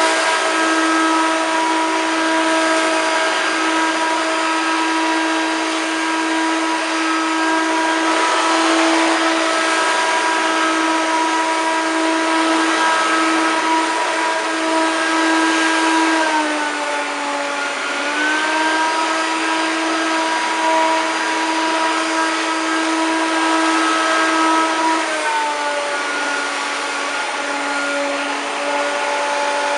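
Hoover Turbopower 2 1000 upright vacuum cleaner running and sucking up cornflakes from the floor: a steady motor hum with rushing air. The motor's pitch dips for a couple of seconds about halfway through and then drops to a lower steady pitch for the last few seconds, which is the auto-sense switching between its two power levels.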